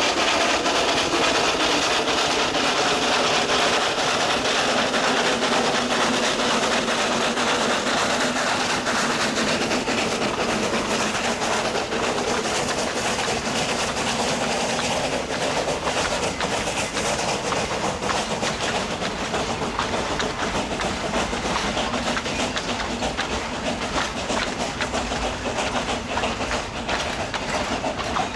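Narrow-gauge coal train hauled by a C2 steam locomotive running, its wheels clattering steadily over the rails.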